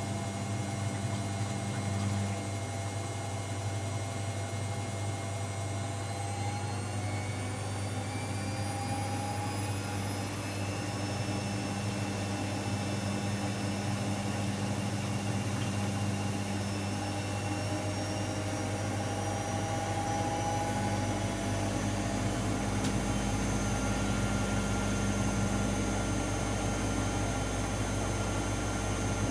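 AEG Lavamat L74810 washing machine spinning up: the motor's whine rises steadily in pitch as the drum gains speed, with a deeper rumble joining about two-thirds of the way in.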